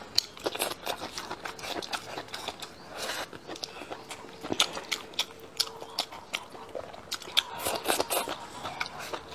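A person biting and chewing stir-fried green chili peppers with fermented black beans: wet crunches and mouth clicks at an irregular pace.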